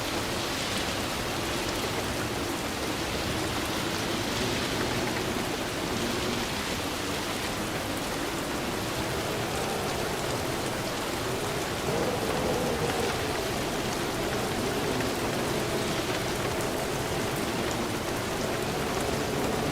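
Steady rain falling and pattering on a surface, a dense even hiss that gets slightly louder about twelve seconds in.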